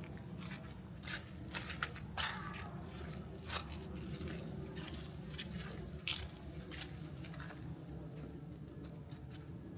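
Footsteps crunching on a path, irregular soft crunches and clicks roughly one or two a second that thin out near the end, over a steady low rumble.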